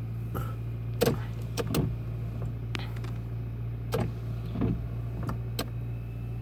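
1998 Toyota Camry engine idling steadily soon after a cold start, a low even hum, with a few sharp clicks and knocks over it.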